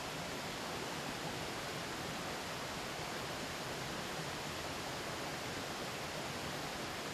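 Steady rushing of a mountain stream flowing over rocks, an even noise that neither rises nor falls.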